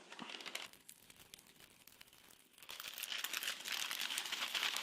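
Plastic ration packaging being handled and crinkled, quietly at first, then louder and denser from a little past halfway.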